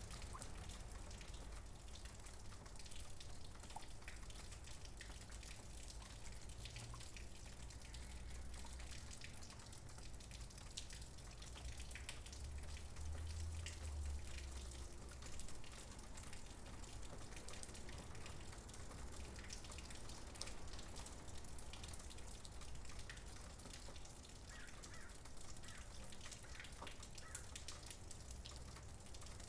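Steady, fairly faint rain with many scattered individual drops and drips ticking close by.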